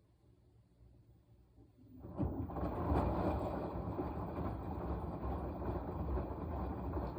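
Washing machine in its wash cycle: after a quiet pause, the drum starts turning about two seconds in, churning the wet laundry with a low rumble, and keeps going steadily.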